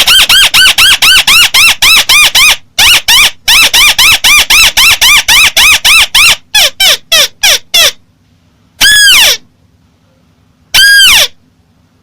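Loud playback of a recorded call of the bird known in Vietnamese as chim mắt xéo. It is a rapid run of short arched whistled notes, about six a second, until about eight seconds in. After a pause come two single longer falling notes, a couple of seconds apart.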